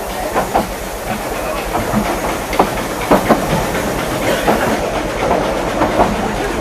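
Ride noise in an open coach of a narrow gauge steam train: a steady rushing rumble with irregular clanks and rattles of the carriage running over the track.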